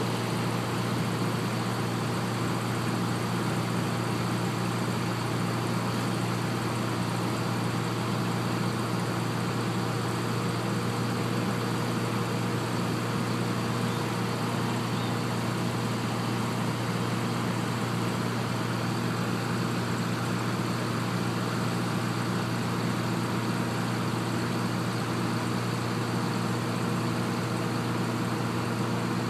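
Heavy machinery engine of a drill rig running at a steady speed: a constant low hum with steady overtones and an even noise over it, with no change in speed.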